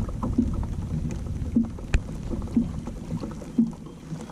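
Wind buffeting the microphone, with water slapping against a kayak hull in short knocks about once a second, and one sharp knock about two seconds in.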